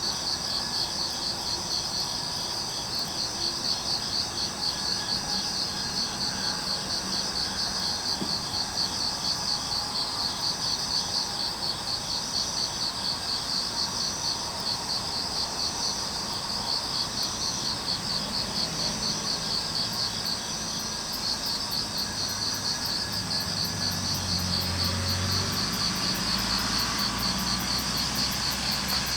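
Crickets chirping steadily in a fast pulsing trill, with a second, faster insect trill joining about twenty seconds in. A low hum comes in under them for the last third.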